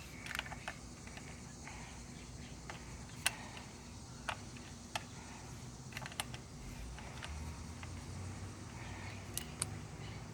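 Scattered light clicks and taps, irregularly spaced, of a 10 mm screw and hand tool being handled as the screw holding the PCV valve is started and turned in, over a low steady hum.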